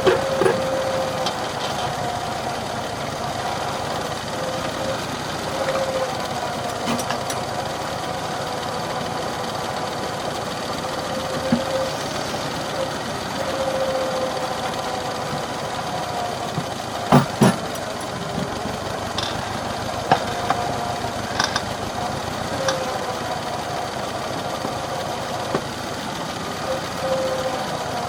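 McCormick Farmall H tractor's four-cylinder engine running steadily at work, its note rising and falling a little with the load. A few sharp knocks sound over it, the loudest a quick pair a little past halfway.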